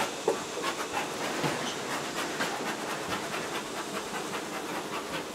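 Quick irregular clicks and taps, several a second, over a steady hiss.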